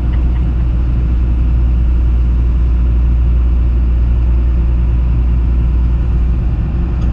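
Komatsu PC210 excavator's diesel engine running steadily, a deep, even drone with no change in speed.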